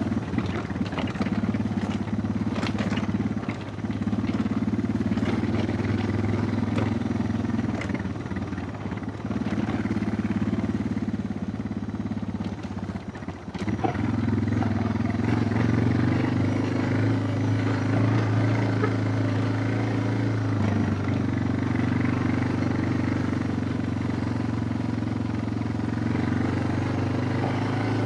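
Suzuki DR650's single-cylinder four-stroke engine running under way, its note dipping a few times as the throttle eases off, then holding steadier and a little higher from about halfway. Knocks and rattles in the first few seconds.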